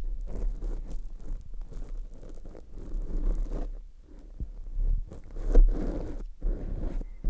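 Close-up licking and mouth sounds right on a microphone: wet rubbing and scraping with short clicks, rising and falling irregularly, over a steady low hum.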